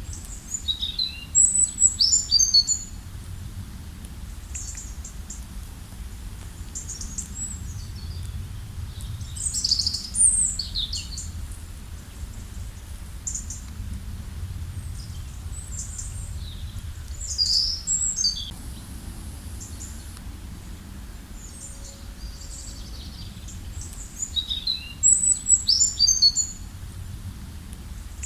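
Songbirds singing short, bright, twittering phrases every several seconds, the same phrase heard near the start and again near the end, over a low steady rush.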